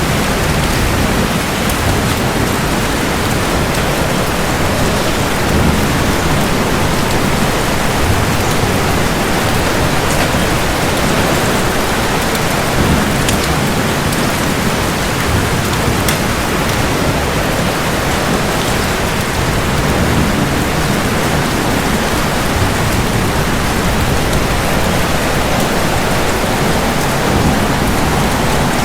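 Steady rain falling hard, with low rumbles of thunder swelling and fading underneath.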